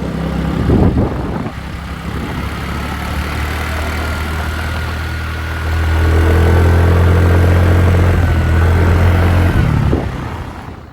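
Motorbike engine running steadily while riding, with a steady low hum. It gets louder about six seconds in, then dies away near the end.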